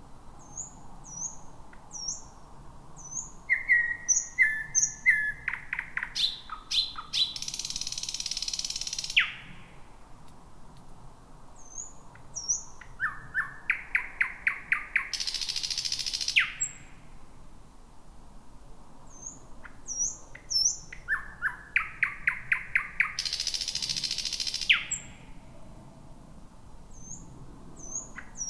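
Thrush nightingale singing: three song phrases, each opening with soft, high upslurred notes, building into a fast run of loud repeated notes and ending in a dry, buzzing rattle.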